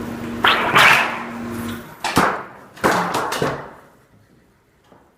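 Sheet-metal flashing being formed: a steady machine hum that cuts off just under two seconds in, with several sharp metal bangs and clatters, the loudest about half a second in and just after two seconds.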